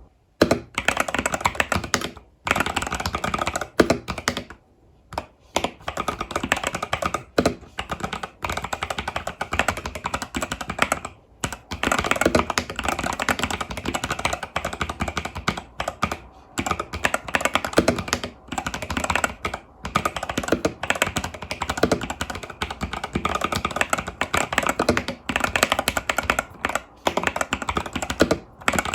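Continuous fast typing on an Epomaker TH80 Pro mechanical keyboard with Epomaker Budgerigar tactile switches and stock keycaps: rapid key clacks with brief pauses now and then.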